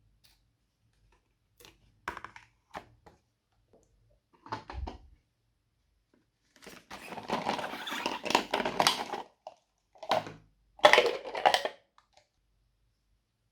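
Slime being squeezed and mixed by hand, giving sticky crackling and popping: a few scattered clicks, then bursts of dense crackle, the longest lasting about two and a half seconds.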